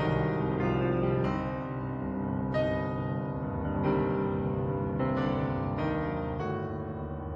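Background piano music from an old silent-film score, with chords struck every second or so.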